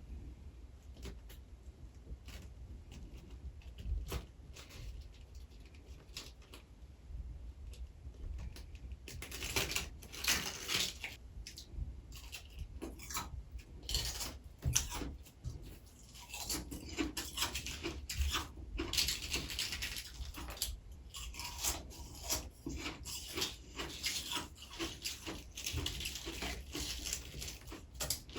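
Close-miked crunching and scraping of soft freezer frost grown with a humidifier. Sparse faint clicks at first, then dense, irregular crackling from about nine seconds in.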